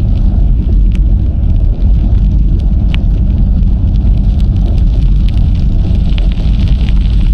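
Steady, loud wind buffeting on an action camera's microphone while cycling, with the rumble of the bicycle's tyres rolling on the trail and a few faint ticks.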